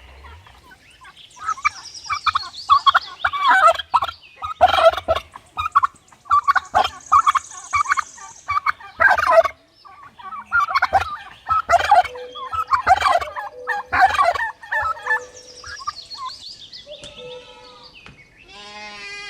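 Turkey gobbling: a string of loud, fast-warbling gobbles, repeated many times with short pauses between them.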